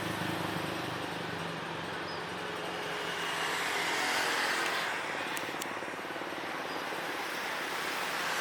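Steady engine noise: a low engine hum fades over the first two seconds, and a broad rushing roar swells about four seconds in and then eases.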